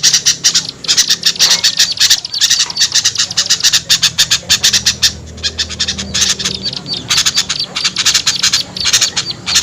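Small birds scolding in a chorus, rapid harsh chattering calls overlapping in runs with brief pauses. It is a lure recording of agitated small birds, meant to draw wary small birds down.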